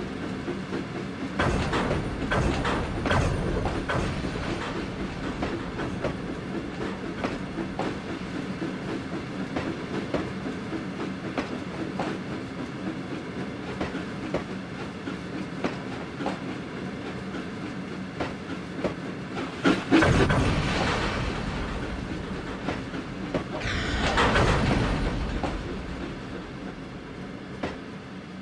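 Train running along the line, wheels clicking over the rail joints, with two louder swells of noise about twenty and twenty-four seconds in.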